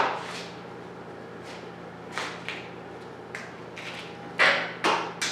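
Short scattered knocks and clatters of metal or equipment being handled, about ten in all and loudest near the end, over a steady low electrical hum.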